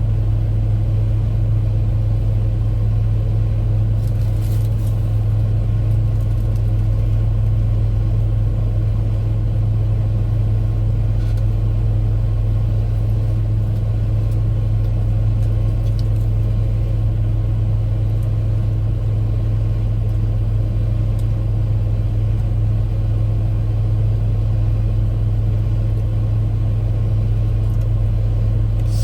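Steady low rumble of a running car, unchanging throughout, with a couple of faint clicks.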